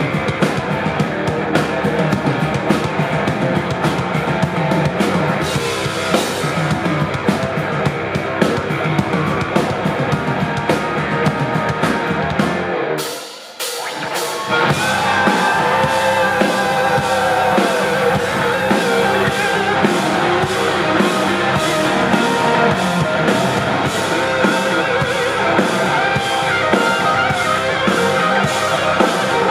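Live rock band playing with drum kit and electric guitar, no vocals. About halfway through the band drops out for a moment, then comes back in at full volume.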